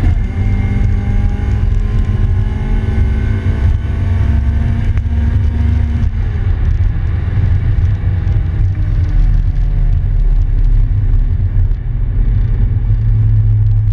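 Honda GSR (B18C1) 1.8-litre DOHC VTEC four-cylinder in a 1994 Civic hatchback, heard from inside the cabin under way. The engine note climbs for about six seconds, falls away suddenly, then runs lower and rises gently again.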